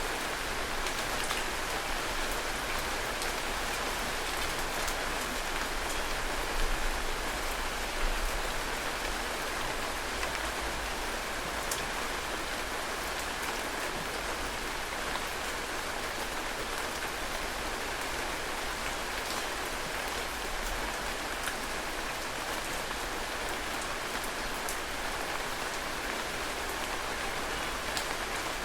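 Heavy rain falling steadily, an even hiss of rain on surfaces with scattered sharper drop ticks. Two brief louder low thuds come about a quarter of the way in.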